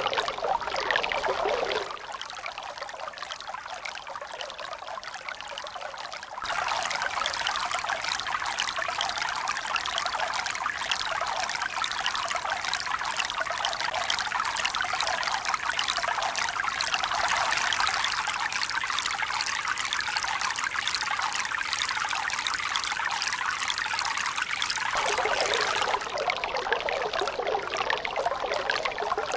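Running water pouring and trickling steadily, with the sound changing abruptly about 2 s in, again about 6 s in, and near the end, as if spliced from different water recordings.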